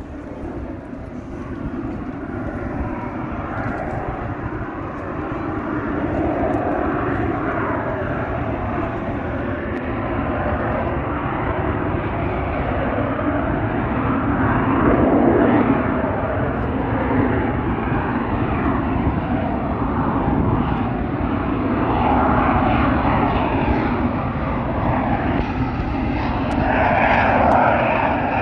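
Blue Angels jet aircraft flying over, a continuous jet roar that builds over the first few seconds and swells as they pass, about halfway through and again near the end.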